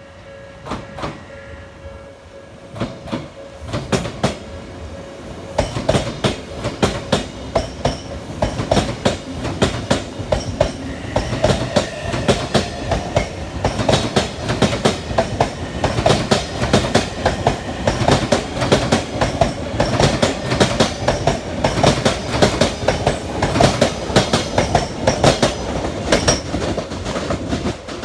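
Odakyu electric train passing over rail joints, its wheels striking each joint in a 'dadan, dadan' double beat. A few strikes come first, then a continuous run of clacking from about five seconds in as the train goes by.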